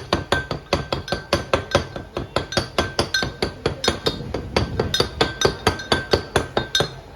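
A cook's utensil striking fast and evenly, about four or five knocks a second with a metallic ring, while chopping and mixing hilsa-tail bhorta.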